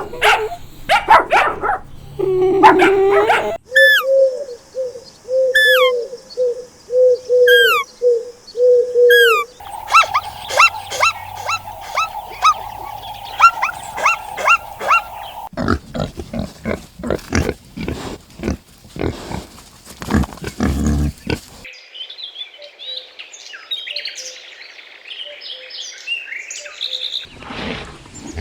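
A series of different animal calls cut one after another. First come about eight evenly repeated pitched calls, then rapid chirping, then a stretch of dense low pulses, and near the end high twittering.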